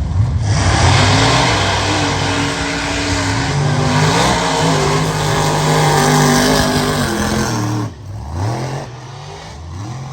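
Mega mud truck engine running at high revs, its pitch stepping up and down, under a loud rushing noise. About eight seconds in, the rushing stops abruptly and the engine is heard rising in pitch again.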